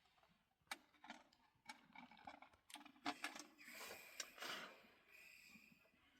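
Faint, irregular clicks and light knocks, with a brief rustle about four seconds in.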